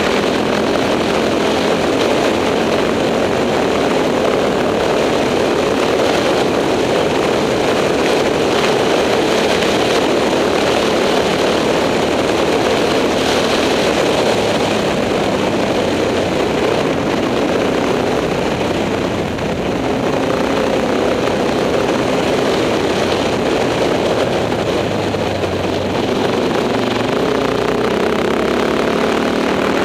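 Enduro motorcycle engine running while riding, its pitch rising and falling with the throttle, over a steady rush of noise.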